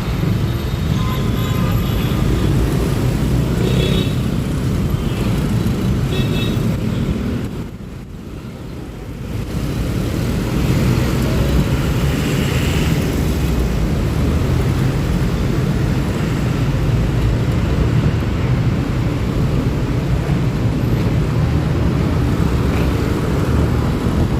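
Honda Click 125i scooter ride through city traffic: a steady rumble of engine, road and traffic noise, which eases for about two seconds around eight seconds in and then picks up again.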